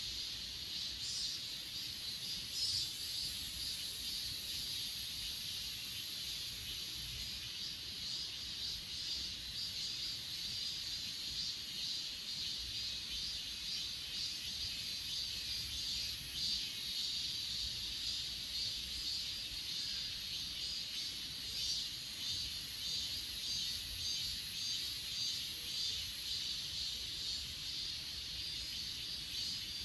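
A chorus of grass insects such as crickets trilling steadily in two high, shrill pitches, with fine rapid pulsing. The highest trill is louder for a few seconds near the start.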